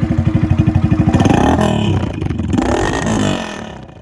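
Yamaha RX 100 two-stroke single-cylinder engine running through its original silencer with the muffler in place, with a rapid even exhaust beat. It is revved up and back down twice, then drops back toward idle near the end.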